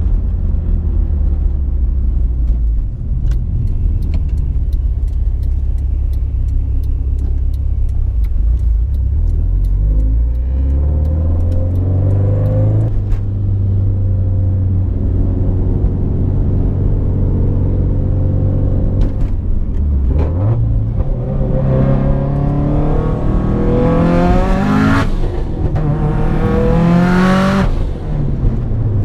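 Car engine under way: running steadily at first, then the pitch climbs about ten seconds in and drops at a gear change. In the last third it pulls hard twice, the pitch rising steeply each time with a rushing hiss over the top.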